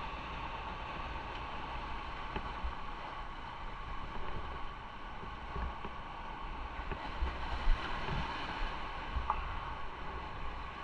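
Motorcycle riding along: steady wind and road noise, with wind gusting on the microphone.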